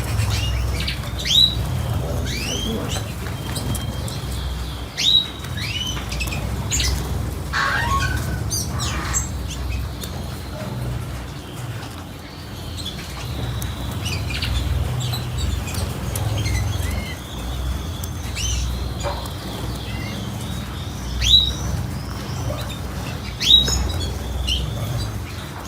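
Caged pet birds chirping: short, sharp calls that sweep upward, repeated every few seconds, over a steady low rumble.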